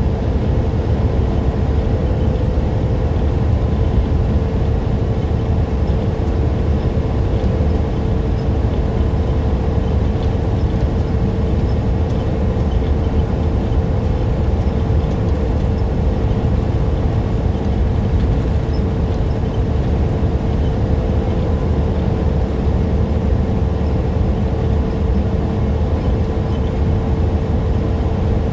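Steady driving noise of a semi truck heard from inside the cab: a constant low engine and road rumble with a steady drone just under 500 Hz, holding even at cruising.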